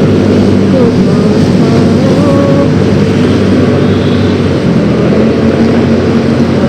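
Yamaha X-Ride 113cc scooter engine running steadily while riding, with continuous road and wind noise.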